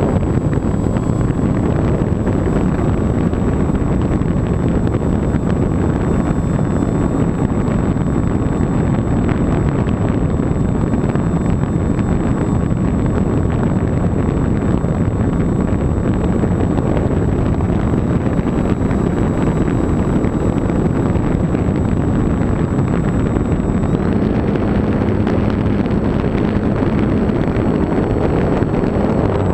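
Steady wind rush buffeting the microphone of a camera riding on a Techone SU31 RC plane in flight, mixed with the plane's motor and propeller. A faint steady high whine runs underneath.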